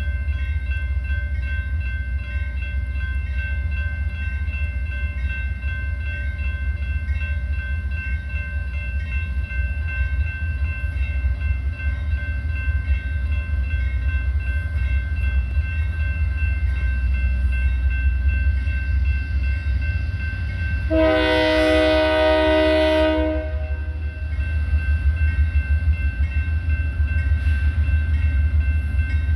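Freight train running by with a steady low rumble and a thin steady whine over it. About three-quarters of the way through, a diesel locomotive's multi-chime horn sounds one long blast of about two seconds.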